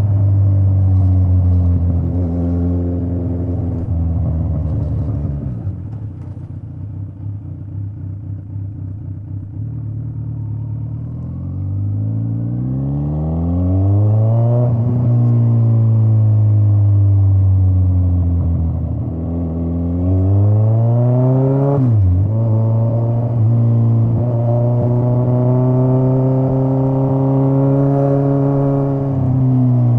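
Straight-piped Kawasaki Z900 inline-four exhaust under way. It drops to a quieter, lower note about five seconds in, then revs up strongly, holds, dips and climbs again. A sharp drop near the middle sounds like a gear change, after which it holds a steady high cruise before the revs fall off at the end.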